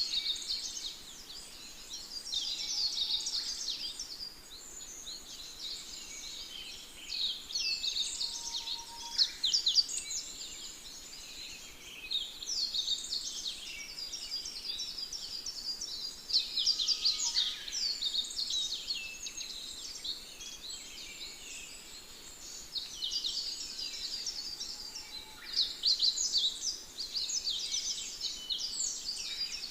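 Several songbirds singing at once: a dense, continuous chorus of quick, high chirps and trills.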